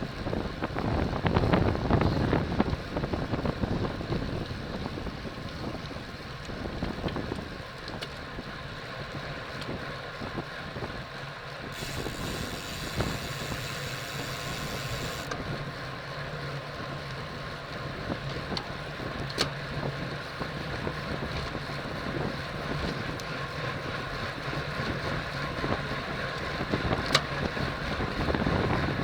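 Wind rushing over a cyclist's action-camera microphone while riding in a bike race, heavier for the first few seconds, then steady.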